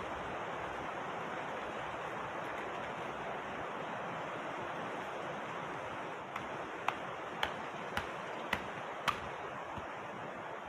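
Steady rushing noise like running water. From about six seconds in, sharp taps come roughly twice a second.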